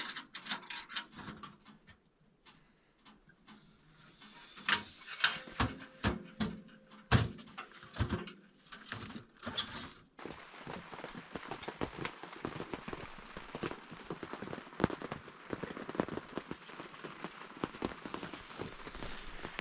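Scattered knocks and clicks for about the first half, then, from about halfway through, steady rain falling on a winter tent, a dense patter of small drops.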